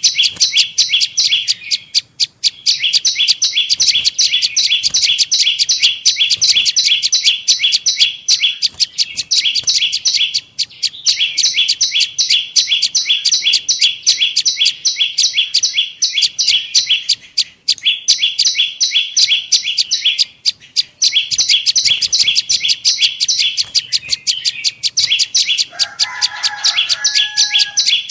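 Prenjak lumut lure call: a fast, unbroken run of sharp, high chirps, several a second, in long bouts separated by short pauses. A lower, different call joins briefly near the end.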